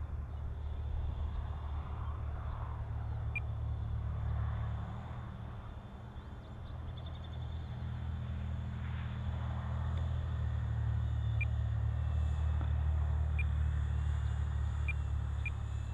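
Wind rumbling on the microphone, easing briefly partway through and then building again. Behind it, the faint high whine of a small electric RC airplane motor, rising in pitch near the end.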